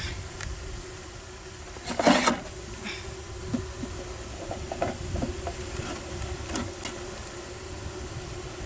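A mass of honeybees from a shipped package buzzing as a steady hum while they are poured into a hive, with scattered knocks and a louder scraping rustle about two seconds in from the wooden shipping crate being handled.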